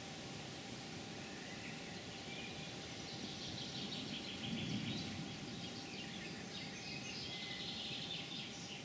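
Small birds chirping and trilling in quick high notes over a steady low background rumble, the birdsong starting about three seconds in and carrying on nearly to the end.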